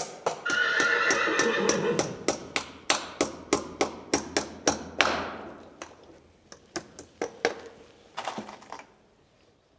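A horse whinnies, a long call starting about half a second in and trailing off by about five seconds, over a farrier's hammer striking in a steady rhythm of two to three blows a second. After the whinny the hammer blows thin out to a few scattered taps.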